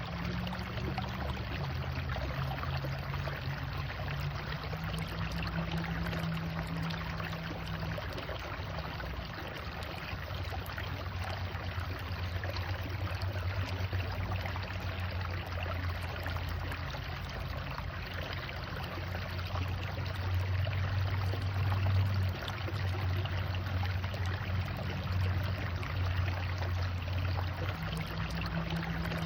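Waterfall: water rushing and splashing in a continuous, even wash. Underneath runs a low steady hum that shifts in pitch a few times.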